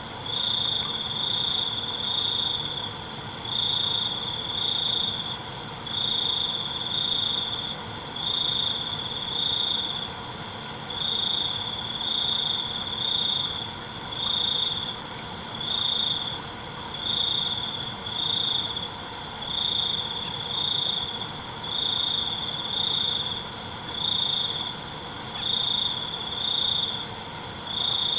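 Crickets chirping: one loud cricket repeats a short chirp about once a second, sometimes in pairs, over a steady high-pitched chorus of other insects.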